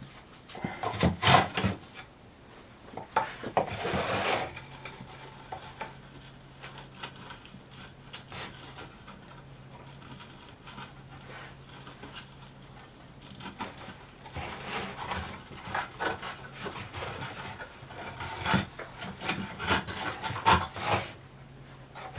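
Rope being worked and knotted on a wooden bird feeder made from cedar fence pickets, rubbing against the wood, with clusters of knocks and scrapes from handling. These come about a second in, around four seconds, and again from about fourteen to twenty-one seconds, and it is quieter in between.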